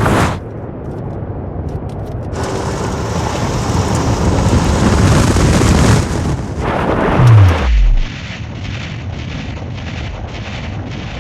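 Cinematic sound design: a swelling rushing whoosh and rumble that ends in a deep bass drop gliding down in pitch about seven seconds in, then a muffled pulsing beat about twice a second.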